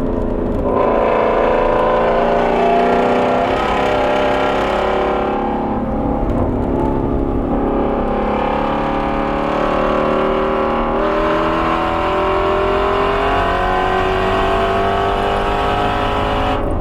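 Ford Shelby GT350R's 5.2-litre flat-plane-crank V8 pulling hard, its pitch climbing steadily, with two breaks, about five seconds in and about eleven seconds in, before it climbs again.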